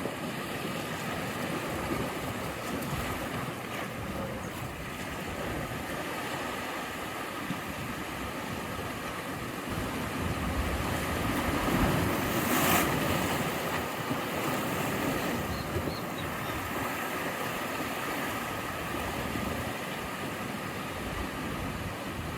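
Sea waves washing onto the shore in a steady surf hiss, with one wave breaking louder about halfway through.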